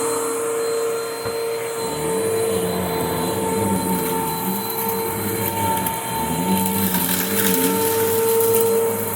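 2009 Hoover Mach upright vacuum cleaner running, with a steady motor whine and a lower hum that wavers up and down in pitch.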